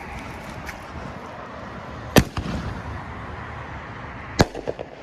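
Consumer aerial firework going off: two loud bangs about two seconds apart, the second followed by a few quick smaller cracks, over a steady hum of freeway traffic.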